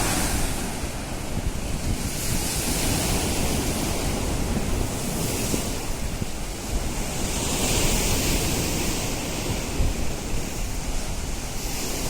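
Steady rush of flowing floodwater, swelling and easing, with wind buffeting the microphone.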